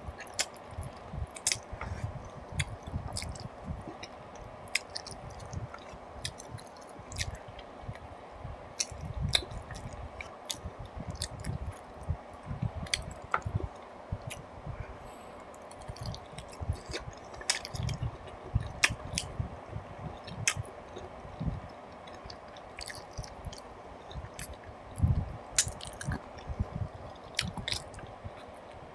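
Close-miked chewing of mutton paya curry and rice eaten by hand: wet squelching, lip smacks and many irregular sharp clicks.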